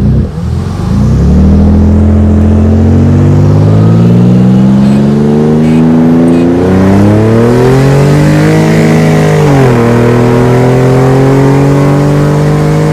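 Nissan Z-car V6 engine pulling hard at full throttle during a race, its pitch climbing steadily. It drops sharply at two upshifts, about six and a half and nine and a half seconds in.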